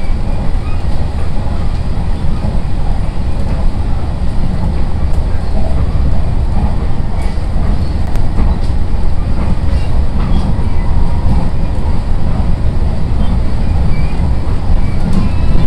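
Running noise heard inside a Sendai Airport Railway SAT721-series electric train car under way: a steady, loud low rumble of wheels on rail and running gear.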